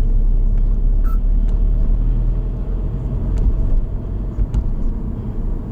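Steady low rumble of a car driving, road and engine noise heard inside the moving car, with a few faint ticks.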